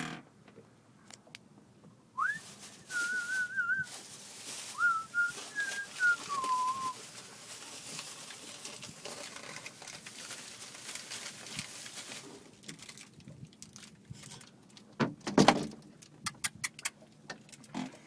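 A person whistling a short wavering tune for about five seconds, starting a couple of seconds in, over a steady hiss. A few sharp clicks and knocks come near the end.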